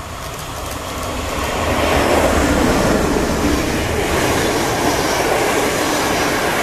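Electric locomotive and its train of passenger coaches passing close by. The rolling noise of the train on the rails swells over the first two seconds as the locomotive comes level, then holds steady as the coaches roll past.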